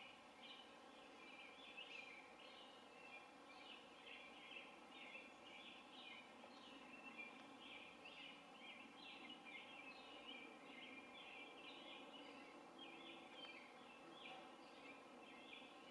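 Faint birdsong: a continuous run of short, high chirps over a quiet outdoor background.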